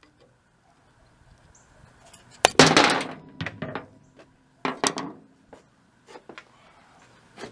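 Clunks and scraping of metal pump parts and hand tools being handled during a teardown, two louder bouts about two and a half and five seconds in, with a few small clicks between.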